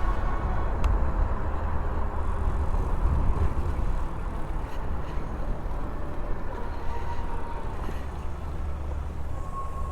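Wind buffeting the microphone and tyre rumble from a moving e-bike, with a faint steady whine from the electric motor that drops out shortly before the end and returns. A single click about a second in.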